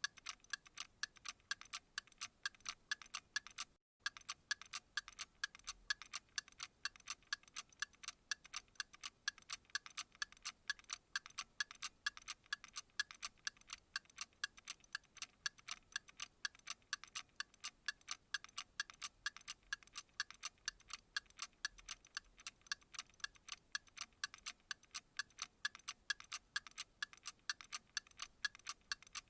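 Clock ticking at a steady, even pace, several sharp ticks a second, with a split-second break about four seconds in.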